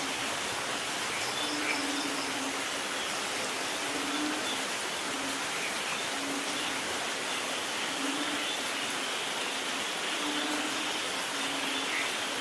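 Steady rain falling, an even hiss, with a short low note repeating roughly once every second or so under it.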